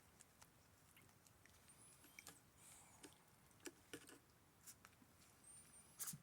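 Near silence: a quiet room with faint scattered small clicks and rustles, and a few faint, brief high chirps.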